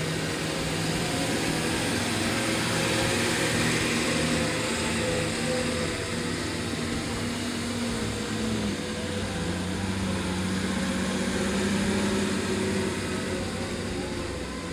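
Truck engine running, its pitch shifting about halfway through, over a steady wash of road and rattle noise.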